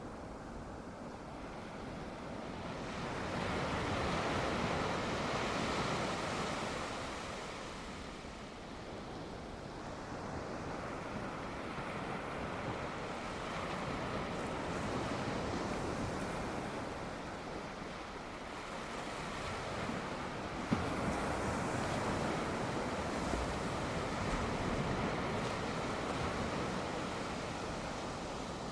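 Sea waves breaking and washing on the shore, the surf swelling and falling back about every eight to ten seconds, with wind on the microphone. One short sharp tap about two-thirds of the way through.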